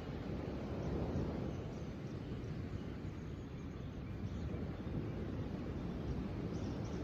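Outdoor nature ambience: a steady low rumbling noise with a few faint, short, high bird chirps scattered through it.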